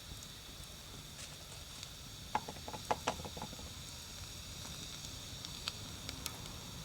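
Wood fire crackling, with a quick cluster of snaps a little over two seconds in and a few single pops later, over a steady hiss.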